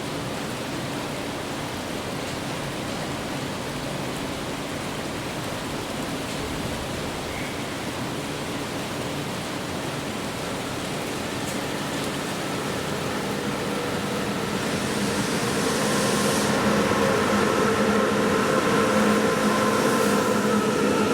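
Steady hiss of background noise, then from about two-thirds of the way in a train approaching, growing louder with a steady humming drone.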